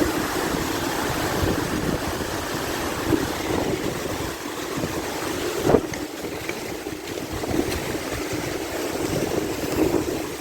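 Steady rush of falling water from a waterfall, with wind noise on the microphone. A single brief knock comes a little past halfway.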